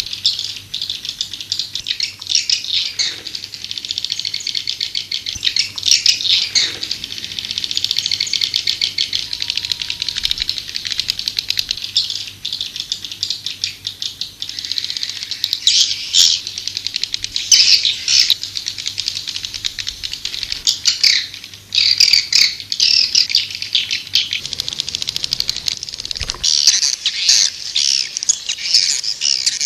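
White-nest swiftlets (edible-nest swiftlets) calling: a dense chorus of rapid, high chattering twitters and trills, the lure call played from speakers in swiftlet houses to draw the birds in.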